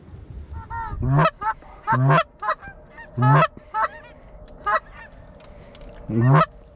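Goose honking: a series of loud two-note honks that break from low to high, about a second apart, with shorter, softer notes between them and a last loud honk near the end.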